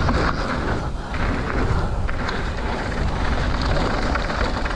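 Mountain bike rolling down a dirt flow trail: tyres running over the ground and wind on the microphone, with a few short rattles.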